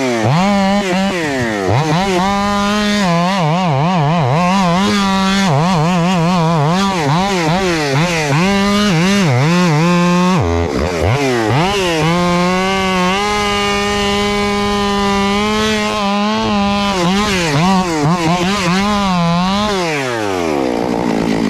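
Two-stroke chainsaw running, its revs surging and dropping repeatedly. The revs drop sharply about halfway through, then are held steady at full revs for several seconds, and fall off near the end.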